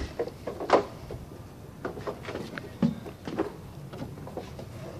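Scattered light clicks and knocks, several short taps spread irregularly, the strongest a little under a second in.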